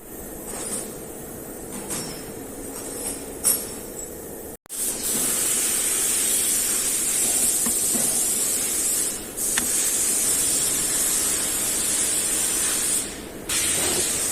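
A pressurised spray hissing steadily for several seconds, stopping briefly twice. Before it come a few light metal clinks.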